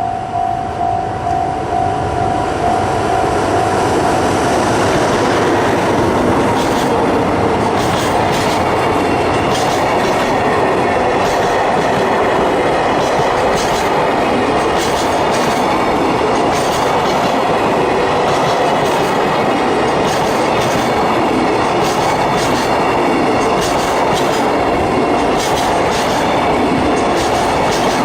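JR Freight DF200 diesel-electric locomotive and its train of Koki container wagons passing close by, with a pulsing warning tone fading in the first few seconds. The wagon wheels then clack over the rail joints in a steady rhythm, roughly one clack a second, under a constant rumble.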